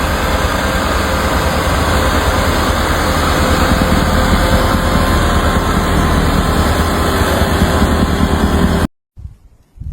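A motor vehicle's engine running steadily, a loud, even rumble and hiss that cuts off abruptly near the end.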